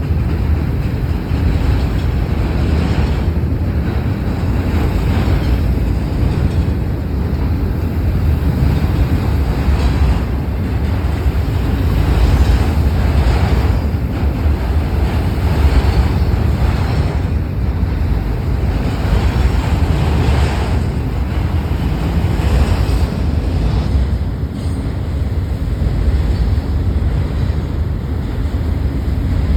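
Freight train rolling past close by: a steady, loud rumble of railcars on the rails, with wind buffeting the microphone.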